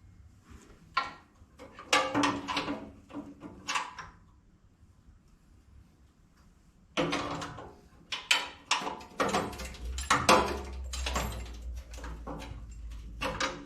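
Irregular metal clanks and scrapes of hand tools working on a bolt, in two bursts with a short pause between.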